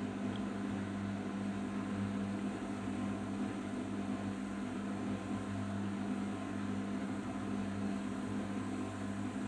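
Arçelik 5083 washing machine running with a steady, even hum during the final rinse and spin of its cotton 60°C program.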